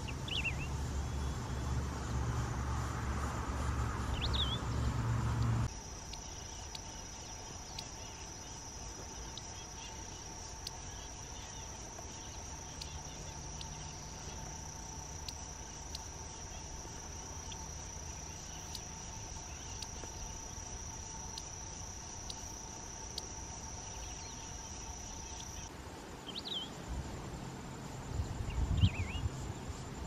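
Wedge-tailed grass-finch giving short, sharp chirped notes a few seconds apart, twice near the start and twice near the end, with a low hum under the first few seconds. Through a long middle stretch a steady high-pitched insect buzz runs without a break.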